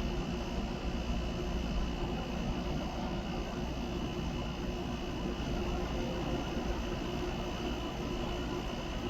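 A steady mechanical drone with a faint high-pitched whine on top, unchanging throughout.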